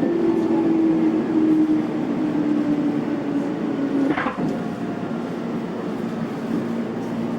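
Tobu Tojo Line electric commuter train running, with a motor whine that falls slowly in pitch over the rumble of the wheels and a single sharp knock about four seconds in.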